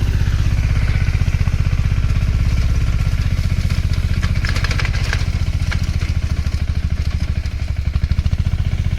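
Small Apollo tractor's Greaves engine running steadily under load with an even, rapid firing pulse, with a brief rattle about four to five seconds in.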